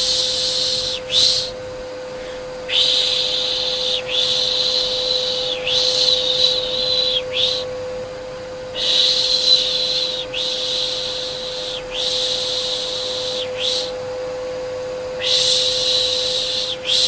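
Rhythmic 'shh' shushing, the Turkish 'pış pış' used to soothe a baby, each shush about a second and a half long, with a few short pauses between runs. Under it runs a steady vacuum cleaner motor hum.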